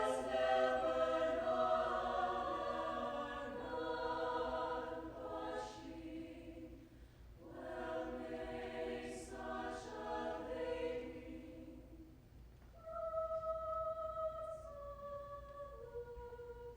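High school choir singing a sustained passage of held chords, with a short break partway through. Near the end the voices give way to a few clear, ringing single notes that step down in pitch.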